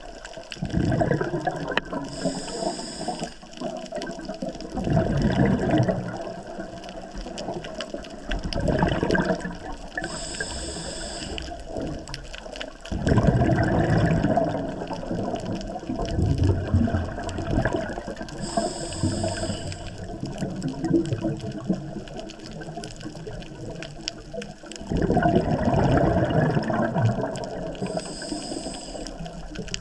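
Scuba diver's breathing through a regulator, heard underwater: a short high hiss on each of four inhalations, about every eight seconds, alternating with loud burbling rushes of exhaled bubbles.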